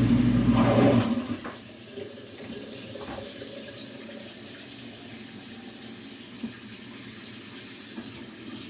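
Kitchen sink faucet running steadily. A louder low hum is heard in the first second and then stops.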